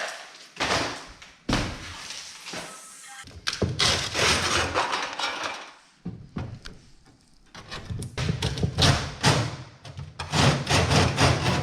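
Repeated knocks, thuds and clattering crashes, like tile and masonry being broken out of a fireplace surround, with music underneath.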